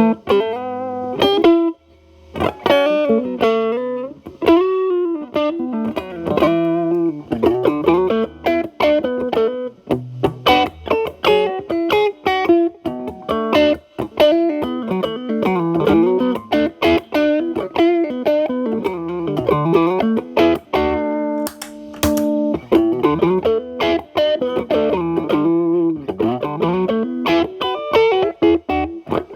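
Electric guitar (Telecaster) through an MI Audio Crunch Box distortion pedal into a Marshall Valvestate's clean channel, with the guitar's volume rolled back so the drive cleans up to a lighter crunch. It plays single-note lead lines with string bends and vibrato.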